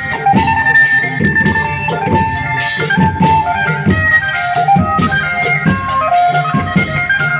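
Isan phin, a plucked Thai-Lao lute, playing a lively folk melody over a steady drum beat.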